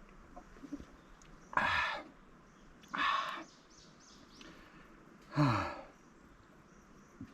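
Three short, breathy exhalations by a person, the last with a falling voiced sigh.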